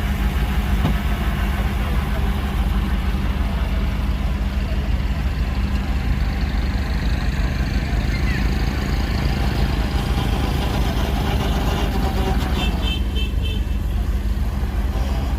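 Heavy diesel engine of a dump truck or bulldozer running steadily. Near the end comes a short run of high chirps.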